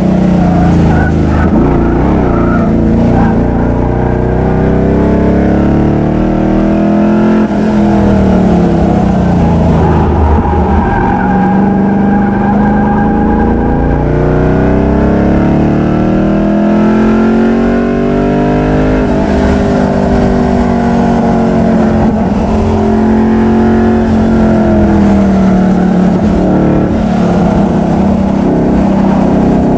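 Performance car's engine being driven hard, its pitch climbing and dropping several times as the driver accelerates and lifts through the course.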